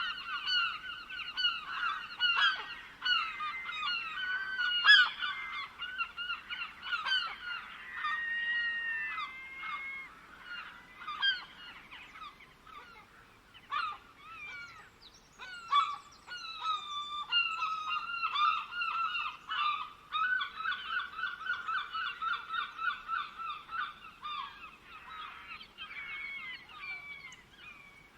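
Several birds calling together in rapid runs of repeated notes. The calls thin out into scattered short calls and glides in the middle, then pick up again.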